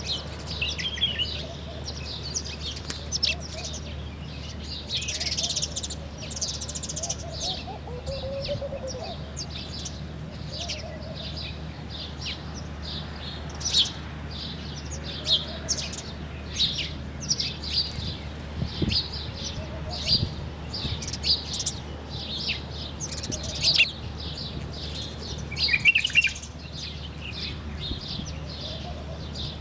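Several songbirds chirping and calling, with short high chirps and trills coming every second or so and a few fainter, lower calls beneath them, over a steady low hum.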